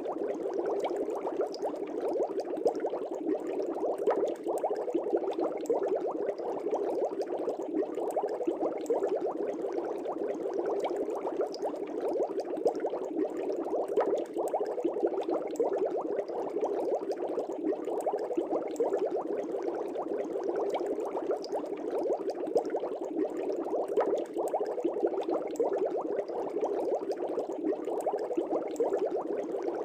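Aquarium fish tank air bubbles, bubbling steadily and densely with a fine crackle of many small bubbles.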